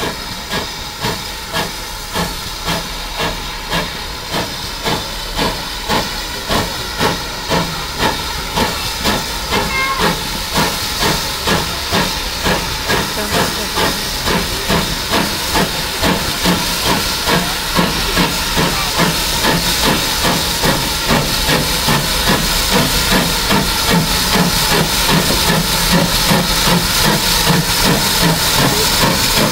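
Steam locomotive pulling away, its exhaust beats quickening from about two to about four a second and growing louder over a steady hiss of steam.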